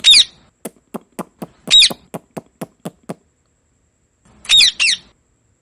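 Indian ringneck parakeet screeching: a loud call at the start, another just before two seconds in, and a quick pair near the end. Between them comes a run of short, sharp clicks at about four a second.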